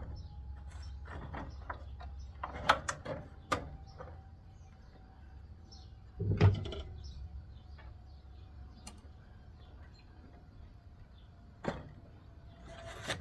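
Scattered knocks and clanks of air-conditioner parts being worked loose and pulled apart by hand. There is a quick cluster about three seconds in and the loudest thud about six seconds in.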